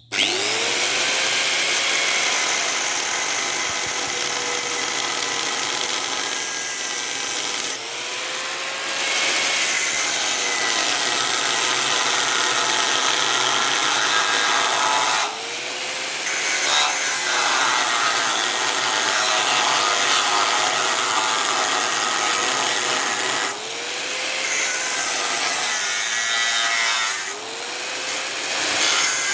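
Electric power tool cutting into a hollow steel pole: a loud, harsh cutting noise that starts abruptly. The motor's pitch sags and recovers several times as the cut eases off and bites again.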